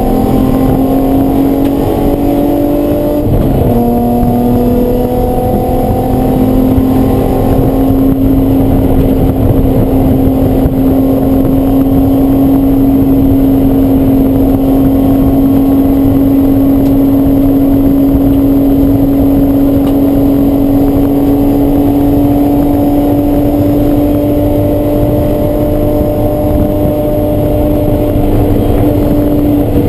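Race car engine running hard under load. It shifts up once about three seconds in, then pulls steadily with its pitch slowly climbing.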